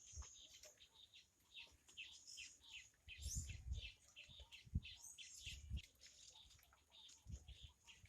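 Faint birdsong: many small birds chirping in quick, short calls throughout, with a few low rumbles swelling under them around the middle and near the end.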